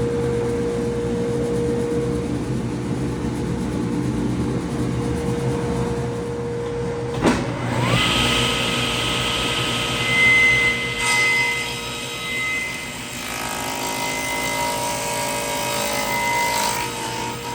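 Woodshop power tool motors: one machine runs with a steady hum, then after a sharp click about seven seconds in, a motor spins up with a rising whine and holds a steady high pitch.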